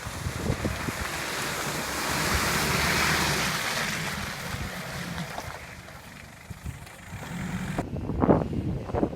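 An off-road SUV driving through mud and water: a rushing, splashing noise that swells to its loudest about three seconds in, then fades. Wind buffets the microphone throughout, with louder gusts near the end.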